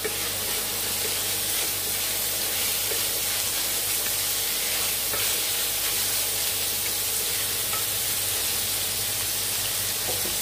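Prawns, shallots and garlic sizzling in oil in a stainless-steel kadai while being stirred with a wooden spatula: a steady frying hiss over a low steady hum.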